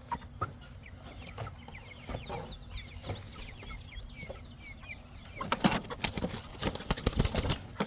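Young chickens, Black Copper Marans cockerels about six or seven weeks old, peeping and clucking in a small cage. About five and a half seconds in, a rapid run of loud clattering and scuffling begins as the birds are grabbed at, with wings flapping against the cage.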